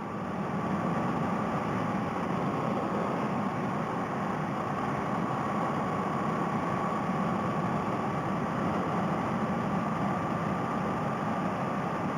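Honda Rebel 250 motorcycle running at a steady cruising speed, its air-cooled parallel-twin engine mixed with wind rush, heard through a helmet headset microphone. Steady throughout, with a faint constant whine.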